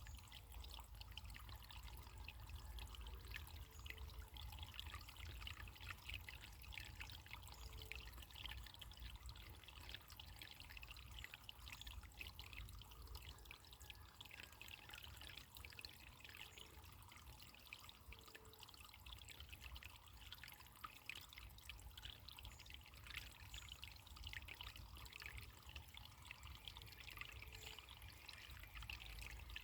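Faint, steady trickle of running water, a small stream babbling over stones, with a low rumble beneath.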